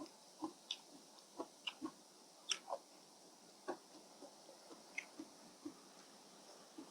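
Close-miked eating: a person chewing rice noodles in fish curry, with irregular soft wet smacks and clicks of the mouth, about two or three a second.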